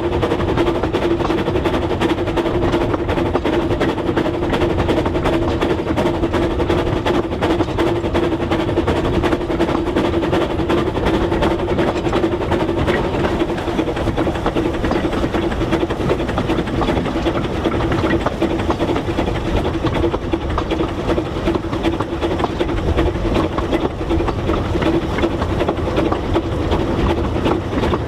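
Narrow-gauge train running steadily, a continuous rumble and clatter of wheels on rail with a steady hum.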